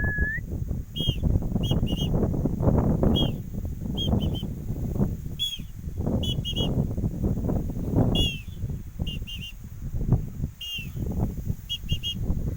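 Small bird chirping: short high chirps in quick groups of one to three, about once a second, with one rising note right at the start. Underneath runs a loud, uneven low rumbling noise.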